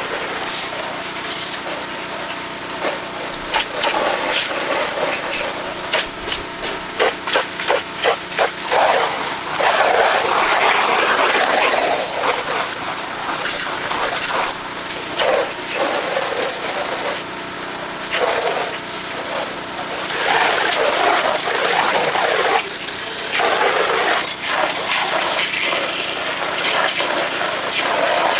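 Small gas engine running steadily under a loud hiss of spray, typical of a pressure washer at work. A quick run of sharp knocks comes about a third of the way in, and the hiss swells louder at times.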